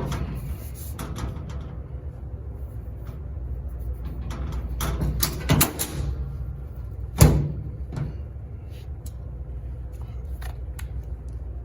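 Several knocks and clunks, the loudest about seven seconds in, over a steady low machine hum.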